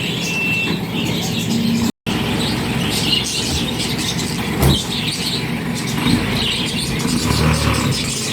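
Isuzu Elf light truck running, its reversing alarm giving a last beep or two in the first second. After a short dropout about two seconds in, the engine runs on, with a single sharp knock about halfway through.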